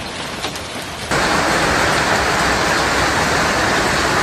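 Heavy storm downpour pelting down as a steady hiss, growing abruptly much louder about a second in.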